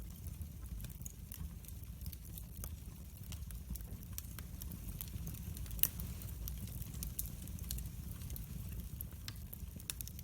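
Wood fire burning in a fireplace: a steady low rumble with frequent small crackles and one louder pop a little before halfway.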